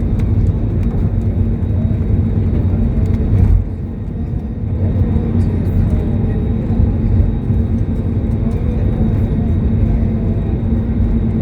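Steady low rumble of a jet airliner's engines and airflow as it comes in to land, with a constant hum; the rumble drops briefly about three and a half seconds in.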